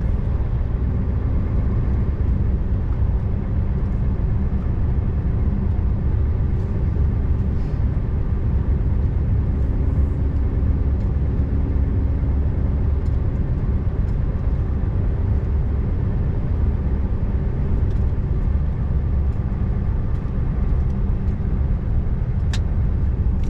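Scania R590 V8 truck engine running steadily under way, with a continuous low road rumble. There is a single sharp click near the end.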